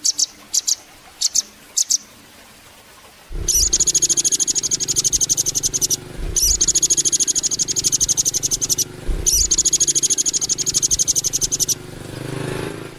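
Velvet-fronted nuthatch (rambatan doraemon) giving a few short, high chips, then three long, very rapid high trills of a few seconds each, with short gaps between them. A low hum runs under the trills.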